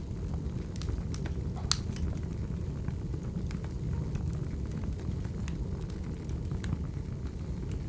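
Wood fire crackling: a steady low rumble with scattered sharp pops and snaps, the loudest a little under two seconds in.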